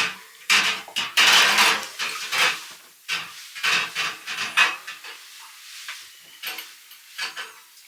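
Dishes and cutlery clinking and clattering as they are washed by hand in hot water, busy for the first few seconds, then fewer, softer clinks.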